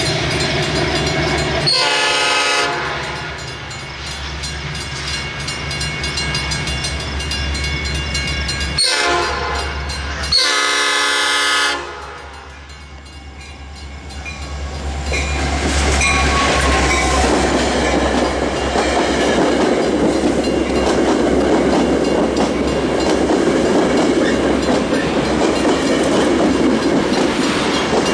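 Metra commuter train sounding its horn three times as it approaches: a short blast, a very short one, then a longer one. Then the train rumbles past close by, a steady loud sound of wheels on rail with the diesel engine running.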